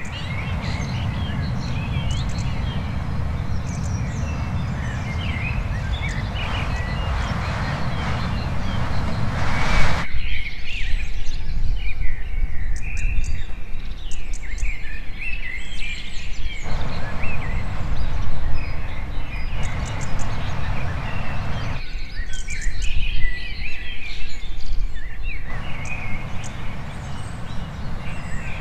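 Several songbirds chirping and singing with quick, repeated calls, over a steady low rushing noise that cuts out abruptly about a third of the way in and returns and drops out again later, like spliced outdoor ambience clips.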